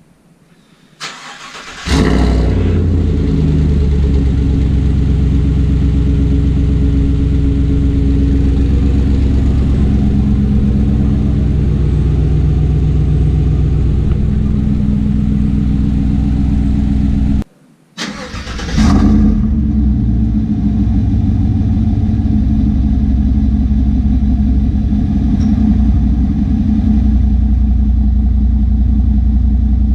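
A 2017 Chevrolet Silverado 1500's 5.3-litre V8 is started from cold twice, with a break between. Each time it catches with a brief flare and settles into a steady, deep idle through dual exhaust.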